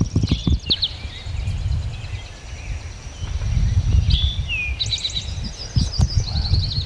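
Several songbirds singing in the woods, with a fast high trill in the second half. Underneath is a steady low rumble with scattered dull thuds at the microphone.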